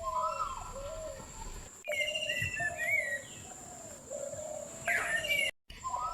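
Birds calling in a run of short, curved, whistled notes that rise and fall, repeating again and again, with a brief cut-out near the end.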